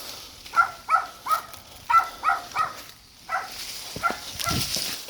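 A dog barking over and over in quick runs of two or three short, high-pitched yaps.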